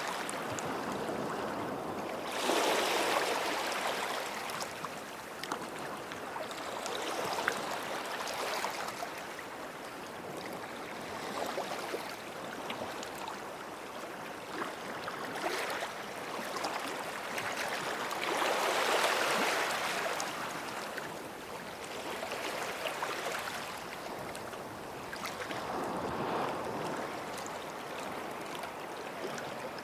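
Small sea waves breaking and washing up the shore in slow, uneven swells, one every four or five seconds, with a steady wash between them.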